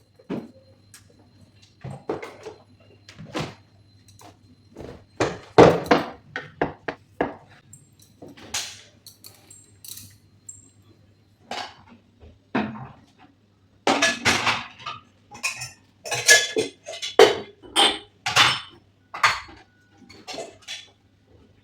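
Dishes and utensils being handled in a kitchen: irregular clinks, clatters and knocks, busiest in the second half. A faint steady low hum runs underneath.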